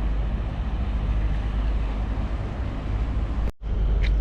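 Wind buffeting the microphone: a steady low rumble with hiss, broken by a brief gap about three and a half seconds in.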